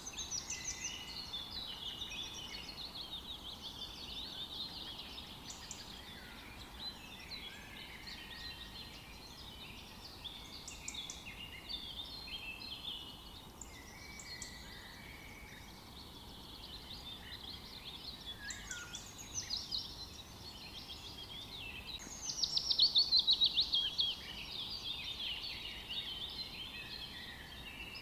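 Several songbirds singing at once, their phrases overlapping continuously over a faint steady hiss. About three quarters of the way through, one bird gives a loud, fast trill of quick falling notes lasting about two seconds.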